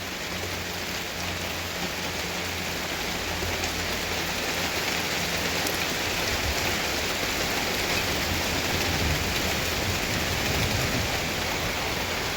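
Freezing rain mixed with snow falling steadily, an even hiss of drops hitting surfaces that grows a little louder over the first few seconds. A low rumble runs underneath through the first half.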